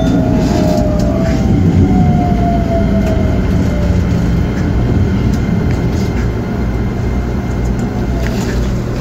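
Keikyu Main Line local train running, heard from aboard: a steady rumble of the running gear, with a motor whine falling slowly in pitch over the first four seconds as the train slows.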